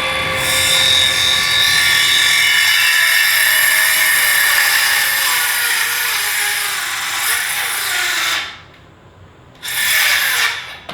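Cordless power saw cutting through a wooden board in one long cut of about eight seconds, stopping suddenly, then running again briefly near the end. Its battery is a little low.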